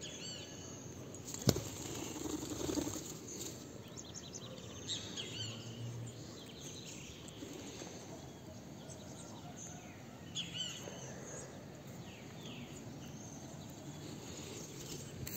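Faint outdoor ambience with scattered short, high bird chirps every few seconds, and a single sharp click about a second and a half in.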